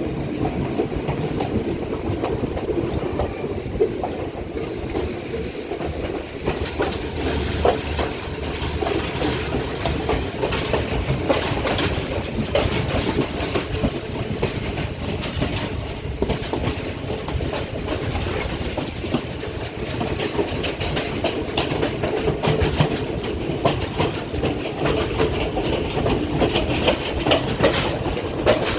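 Colombo–Badulla night mail passenger train running, its wheels clicking and clattering over the rail joints over a steady rumble. The clatter turns sharper about seven seconds in.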